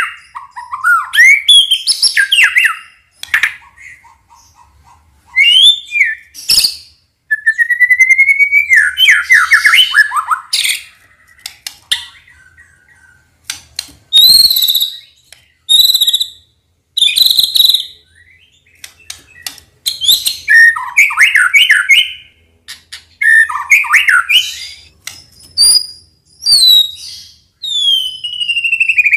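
White-rumped shama (murai batu) singing: loud bursts of clear whistled notes, rising and falling glides and rapid trills, separated by short pauses.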